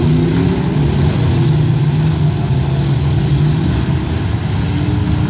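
Engines of several full-size demolition derby cars running and revving together, loud and steady, their pitch wavering up and down.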